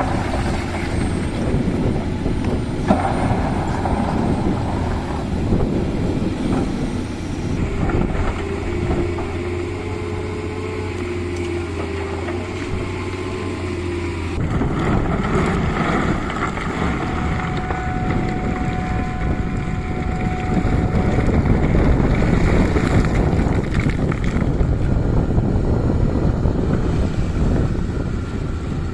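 Tata Hitachi excavator's diesel engine running steadily under working load, with a faint whine over it; the sound turns rougher and louder about halfway through.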